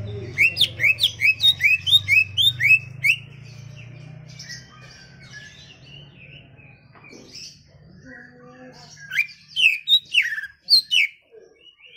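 Greater green leafbird (cucak ijo) singing: a quick run of about nine loud rising whistled notes over the first three seconds, then softer twittering, then another burst of loud sharp notes around ten seconds in.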